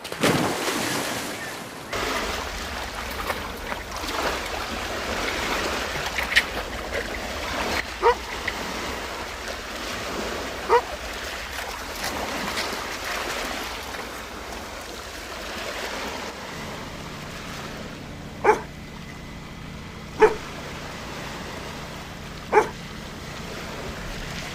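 A steady rush of surf and wind, with short, sharp canine barks now and then; the last three come about two seconds apart.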